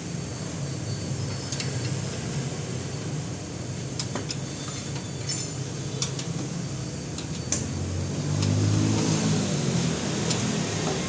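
Hand tools clinking and clicking against metal car parts during suspension work, over a steady vehicle rumble. A vehicle engine swells louder about eight seconds in and fades about a second and a half later.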